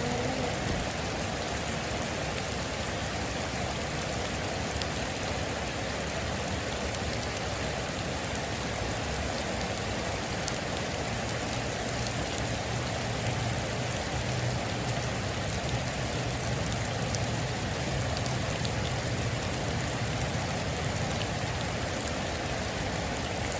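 Heavy rain falling steadily on a metal roof, with scattered sharper drop ticks over a continuous hiss.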